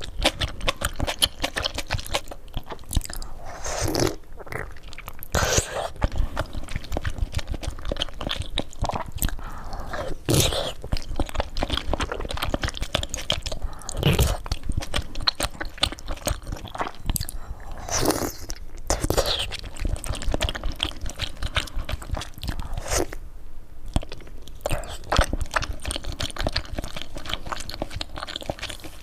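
Close-miked eating: a person biting and chewing food with dense crunching, crackling and wet mouth sounds, and a sharper bite every second or two.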